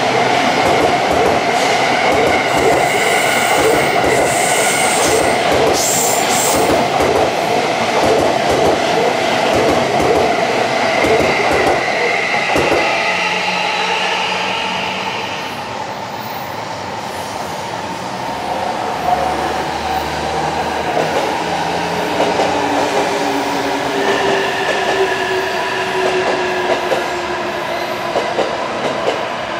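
JR East E657 series electric limited express passing: fast, dense clatter of wheels over the rails with the steady hum of the electric traction motors. It eases off a little after halfway, leaving a quieter electric motor whine whose tones fall slowly in pitch near the end.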